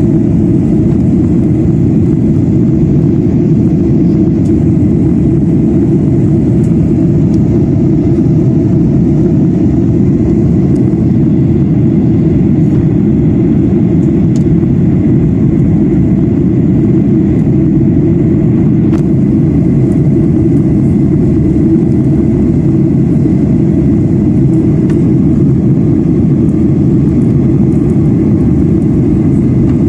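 Airliner cabin noise in flight: a steady, loud, low rush of jet engines and airflow.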